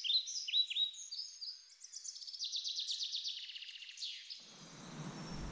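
A small songbird singing a run of quick, high, falling chirps, with a fast trill about halfway through.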